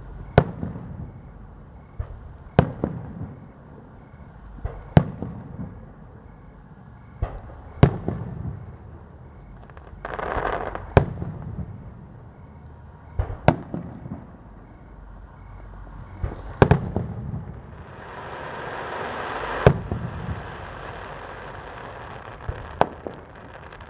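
Aerial firework shells bursting at a distance: about a dozen sharp booms a second or two apart, each followed by a rolling echo. A hiss rises after one burst near the middle, and a longer hiss runs through much of the last third.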